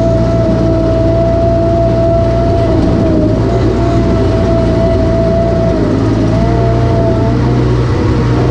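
Heavy vehicle engine running steadily under load, with a high whine over it that wavers slightly.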